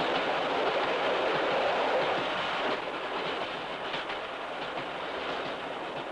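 Passenger train of the Dutch railways (NS) running along the line: a steady rolling rumble with faint clicks of the wheels over rail joints, easing slightly about three seconds in.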